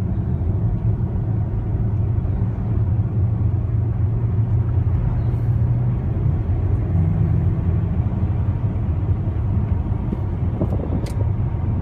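Steady low rumble of a vehicle's engine and tyres on the road, heard from inside the moving vehicle.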